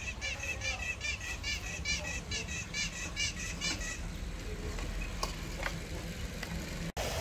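A bird calling a rapid run of short chirping notes, about four a second, for roughly the first four seconds, over the steady low rumble of a gas burner. A couple of light clinks of a utensil against the pot come later.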